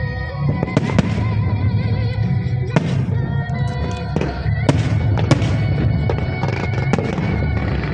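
Fireworks display going off: irregular sharp bangs and crackles over a continuous low rumble of explosions, with music playing alongside.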